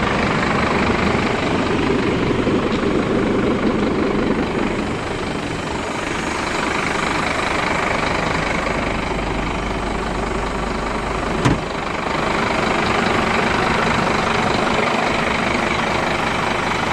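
Scania P230 truck's diesel engine running steadily, a little fuller for the first few seconds, with one sharp knock about eleven and a half seconds in.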